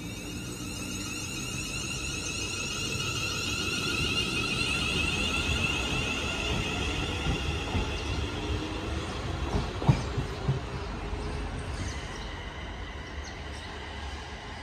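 Electric multiple-unit passenger train pulling away: a steady multi-toned whine from the traction motors builds over the first few seconds. Wheels give a sharp clack about ten seconds in, then the train's sound fades as it goes.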